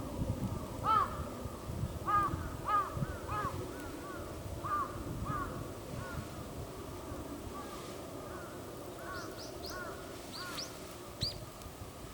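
A crow cawing in a series of repeated calls that thin out after about seven seconds, with a few short, high bird chirps near the end.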